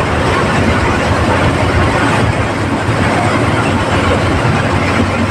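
Steady engine and road noise from inside the cab of a heavy vehicle driving at speed, a constant low rumble under a dense hiss with no distinct events.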